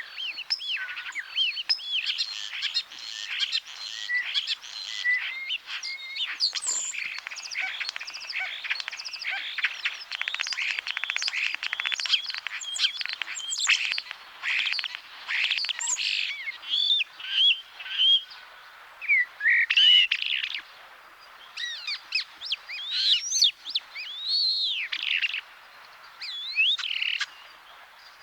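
Common starling singing: a long, varied medley of slurred rising and falling whistles, clicks and rattles. In the middle it runs into a dense stretch of rapid clicking, and later it breaks into separate whistled phrases with short pauses between them.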